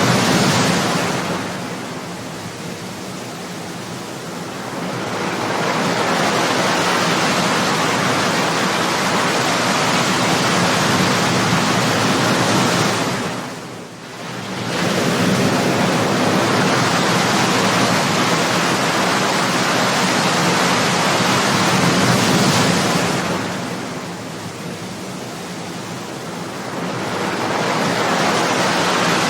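Ocean waves breaking: a continuous wash of surf that swells and ebbs. There are quieter lulls a few seconds in and again near the end, and a brief sharp dip about halfway through.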